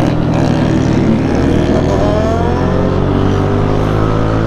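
Motorcycle engines running steadily, with one engine rising in pitch as it accelerates from about a second and a half in.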